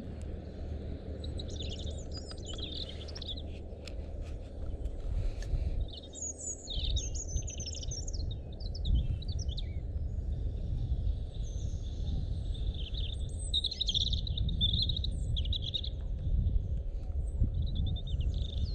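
European robin singing: bouts of high, varied warbling phrases with short pauses between them, over a steady low rumble.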